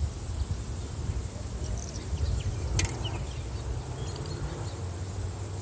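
Wind buffeting the microphone outdoors, a steady fluctuating low rumble, with a single sharp click a little under three seconds in and a few faint high chirps.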